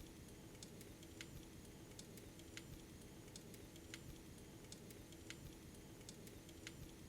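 Faint, sharp clicks, the strongest coming regularly about every second and a half with weaker ones in between, over a low steady hum.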